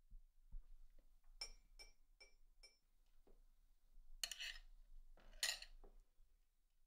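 A metal teaspoon tapping four times against the rim of a mug of tea, each tap a short ringing clink, about half a second apart. Then come two short noisy scrapes, the second the loudest.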